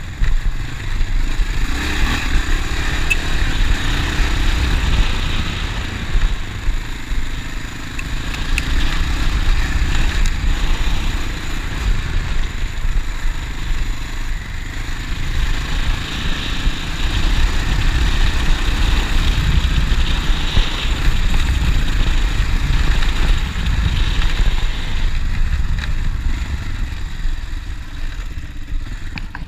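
Honda Dominator NX650's single-cylinder engine running under way, its loudness rising and falling as the throttle opens and closes.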